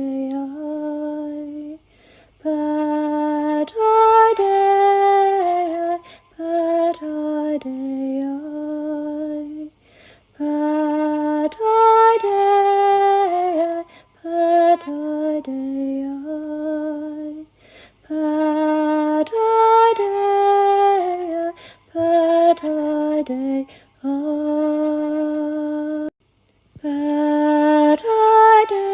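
A woman singing slow, chant-like phrases of long held notes, with short pauses between phrases and no accompaniment.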